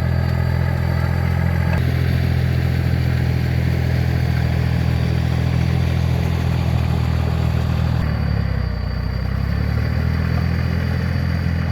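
Tractor engine running steadily under way, with a brief change in its note about eight seconds in before it settles again.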